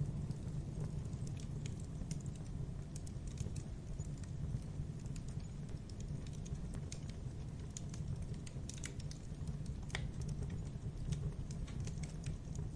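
Logs burning in a fireplace: a steady low rush of flame with irregular sharp crackles and pops, one louder pop about ten seconds in.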